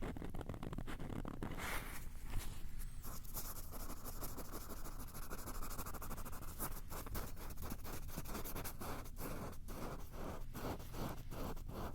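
Close-miked scratching and rubbing strokes on a hard surface, ASMR triggers. They come in a rapid, dense run, then settle into separate strokes about three a second past the middle.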